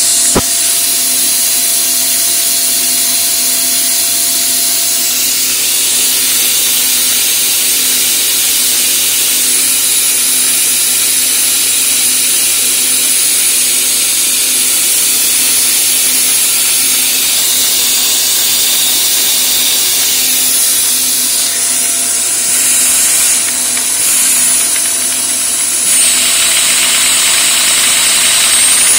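Vacuum cleaner running steadily with a loud hiss and a thin high whistle, its suction driving a two-cylinder Lego overhead-valve vacuum engine. The tone of the hiss shifts a few times near the end.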